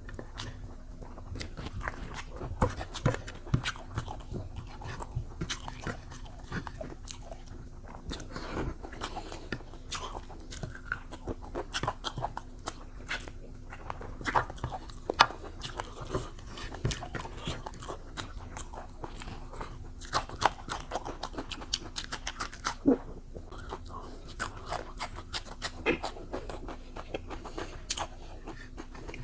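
A person chewing and biting food close to the microphone: irregular crunching and wet mouth smacks, some sharper crunches standing out.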